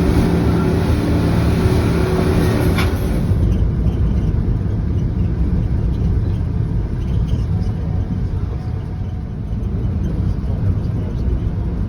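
Engine running with a steady low rumble. A humming tone and a higher hiss over it fall away about three and a half seconds in, leaving the rumble.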